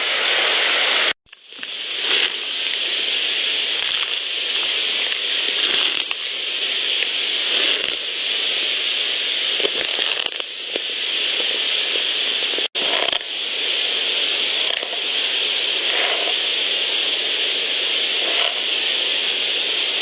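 Amplified woodland recorder audio: a steady loud hiss with faint scratching and crackling sounds, broken by two brief cuts between clips, about a second in and about two-thirds of the way through.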